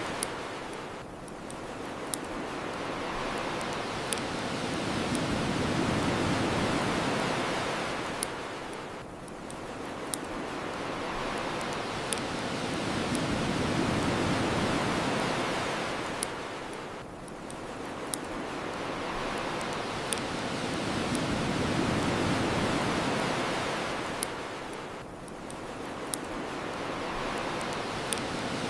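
Ocean surf washing on the shore, swelling and falling back about every eight seconds, with the sharp pops and crackles of a wood bonfire scattered through it.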